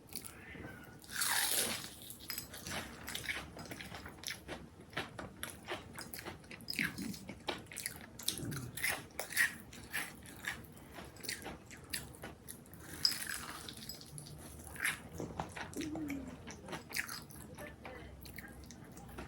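Close-miked eating: crunchy food being bitten and chewed, with many small crackling crunches. Two louder crunching bites come about a second and a half in and again near the thirteen-second mark.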